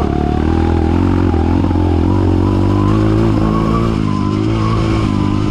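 Kawasaki KLX trail bike's single-cylinder engine running under way at fairly steady revs, its pitch wavering slightly with the throttle.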